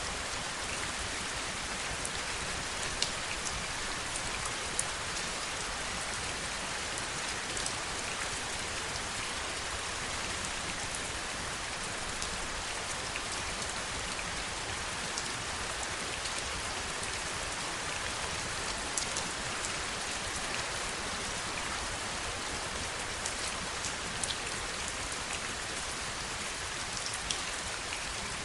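Steady heavy rain: an even hiss with many sharp single drops ticking through it.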